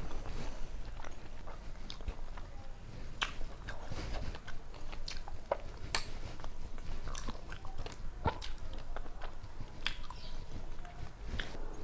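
A person chewing mouthfuls of rice and vegetable curry right at a clip-on microphone. Sharp wet mouth clicks and smacks are scattered throughout.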